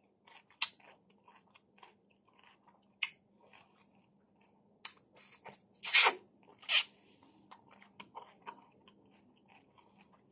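A person eating smoked chicken close to the microphone: scattered wet smacks and chewing clicks, with two louder bursts about six and seven seconds in as a piece of meat is bitten off. A faint steady hum runs underneath.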